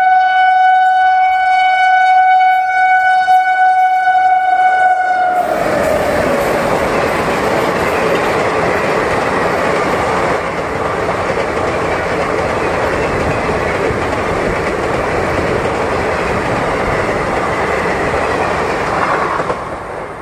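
WAP-7 electric locomotive's horn held for about five seconds, its pitch dropping as the locomotive passes, then the express's coaches rushing past at speed in a steady loud roar of wheels on rail for about fourteen seconds, cutting off near the end.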